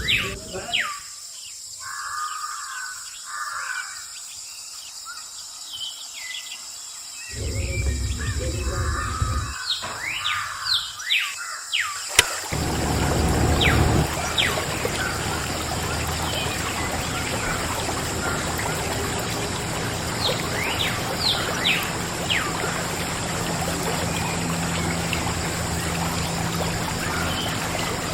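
Birds chirping, then about twelve seconds in a steady rush of water starts and keeps going, with birds still calling over it: water from a small water pump spraying or pouring.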